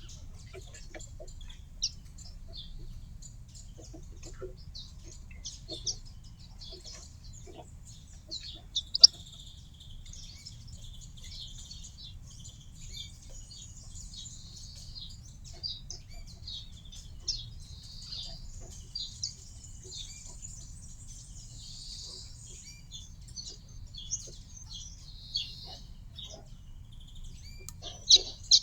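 Garden birds chirping and twittering at a feeder, many short high calls overlapping throughout, with a few sharp taps, the loudest about nine seconds in.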